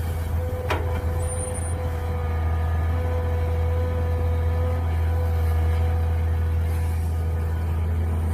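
Mini excavator's engine running steadily under a continuous whine, with a single sharp knock just under a second in.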